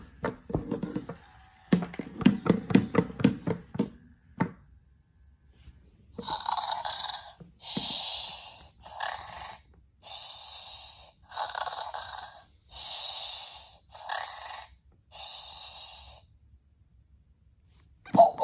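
Battery-operated plush puppy toy's small speaker playing panting breaths, about nine puffs roughly a second apart, after a pitched, rapidly pulsing sound in the first few seconds.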